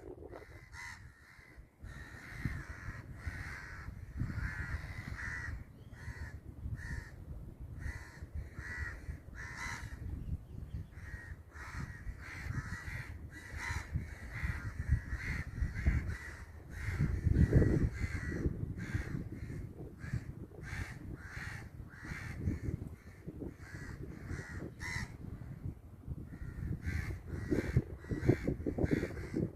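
A crow cawing over and over in short harsh calls, often one or two a second, all through. Under the calls runs a low rumble that grows loudest about halfway through and again near the end.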